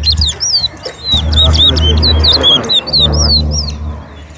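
Towa-towa seed finches singing a rapid run of clear whistled notes, each sliding up and down in pitch, over a low background rumble. These are the songs being counted in a bird-song race.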